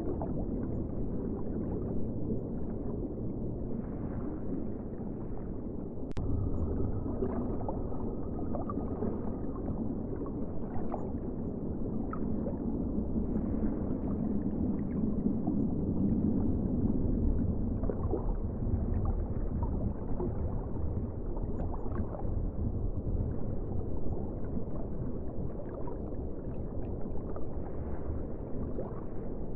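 Ocean water ambience: a steady, deep rush of moving water with faint gurgles and small crackling clicks.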